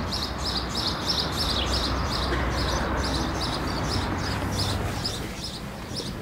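A bird chirping over and over, about three to four short high chirps a second, over a steady low rumble.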